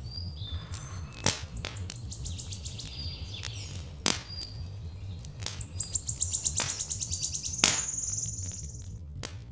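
Birds chirping and trilling, with a rapid high trill running through the second half, over the sharp pops of a crackling wood fire, loudest near the end, and a steady low rumble.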